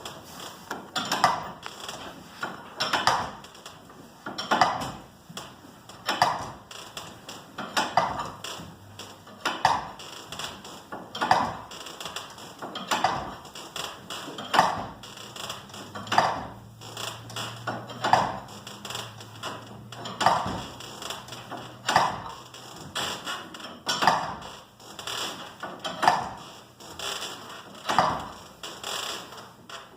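Steel winding bars clinking in the winding cone of a garage door torsion spring as it is wound a quarter turn at a time, with a regular clink about every one and a half to two seconds.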